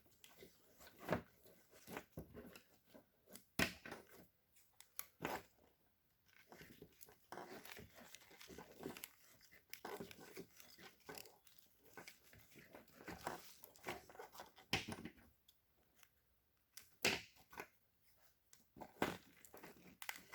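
Corrugated plastic split loom being pressed closed around a car's engine wiring harness, with irregular crackling and rustling and a few sharper snaps.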